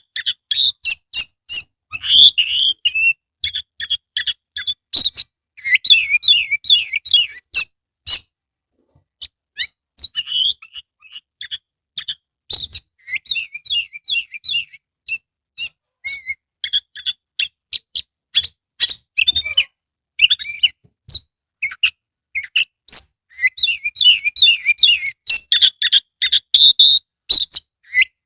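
Oriental magpie-robin (kacer) singing vigorously in rapid, varied phrases of sharp whistles, chirps and harsh notes, with brief pauses between bursts.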